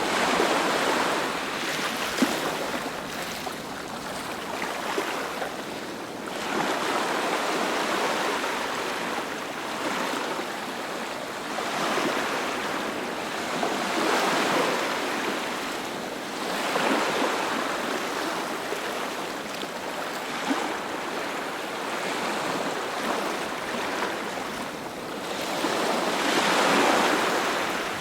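Sea waves breaking and washing up on the shore, a steady rushing hiss that swells and falls back every few seconds.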